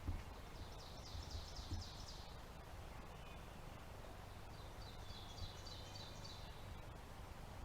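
A songbird singing two short phrases of rapid, high repeated notes, a few seconds apart, over quiet woodland background.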